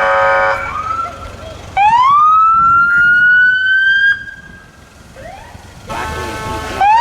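Parade emergency vehicles sounding off: a horn blast ending about half a second in, then a siren rising slowly in pitch for about two seconds and cutting off. Near the end a second horn blast comes, followed straight away by another siren rise.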